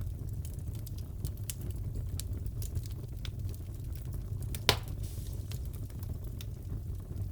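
Wood fire crackling in a fireplace: a steady low rumble with many small crackles and one louder pop a little past halfway.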